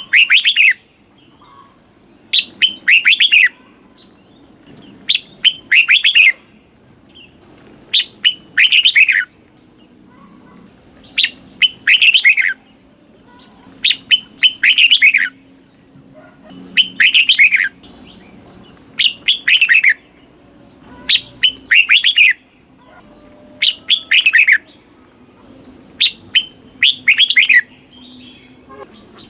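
Red-whiskered bulbul singing its loud, clear song over and over. Each phrase is a couple of sharp notes followed by a quick run of falling whistled notes lasting about a second, repeated roughly every two and a half to three seconds.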